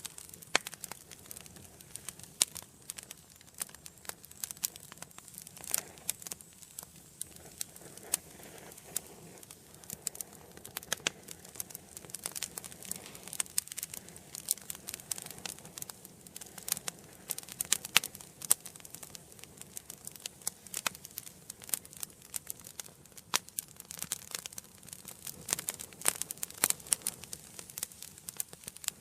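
Wood fire burning in an indoor fireplace: steady irregular crackling and snapping of the burning logs over a soft hiss of flame.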